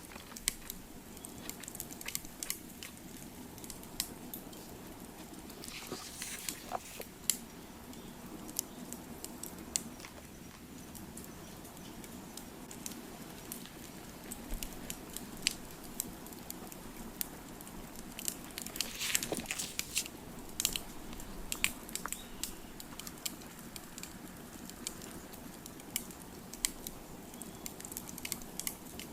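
Wood fire crackling: irregular sharp pops and snaps over a steady low background, with a denser flurry of crackles about nineteen seconds in.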